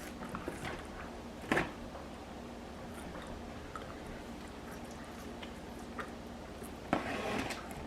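A person chewing and biting fries close to the microphone, with one sharper bite about a second and a half in and a louder stretch of noise near the end.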